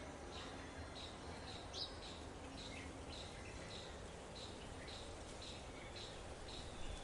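A bird giving short, high chirps over and over, about two a second, over faint outdoor ambient noise.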